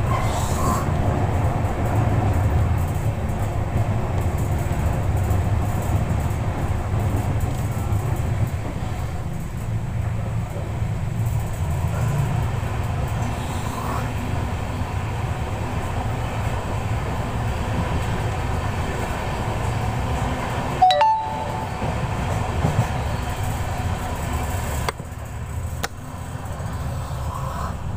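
Passenger train running at speed, heard from aboard a coach: a steady low rumble of wheels on rails. About 21 seconds in there is one brief metallic clink.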